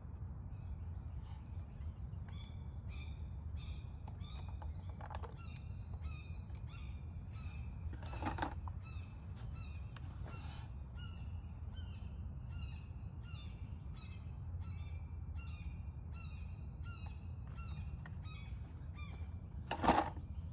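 A bird calling over and over in short high chirps, about two a second, over a steady low rumble. Two brief knocks, one about eight seconds in and a louder one near the end.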